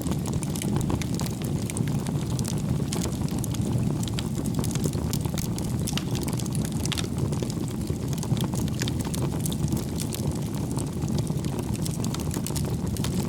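Wood fire burning in a fireplace: a steady low rumble of flames with frequent sharp crackles and pops of burning logs.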